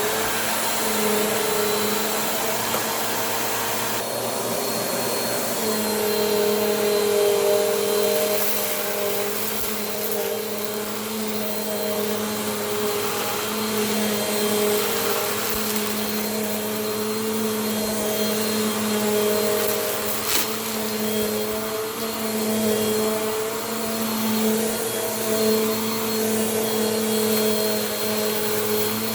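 Bissell PowerForce Compact vacuum running steadily, its motor hum wavering a little in pitch with a shift about five seconds in. A single sharp click sounds about two-thirds of the way through.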